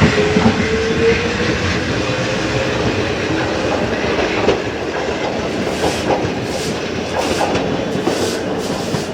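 Electric train of the Wakayama Electric Railway Kishigawa Line running, its motor whine rising in pitch over the first few seconds as it picks up speed. Later come regular clicks of the wheels over the rails.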